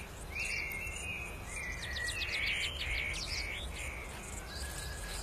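Small birds chirping, with many quick repeated notes and some longer held calls.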